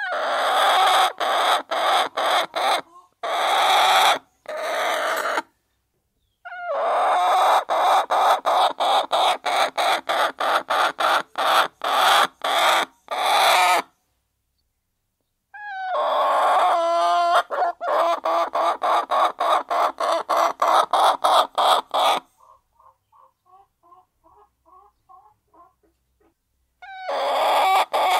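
Domestic hens clucking loudly in long, rapid runs of calls, about five a second, each run lasting several seconds with short pauses between. Softer, quieter clucks fill one pause about two-thirds of the way through.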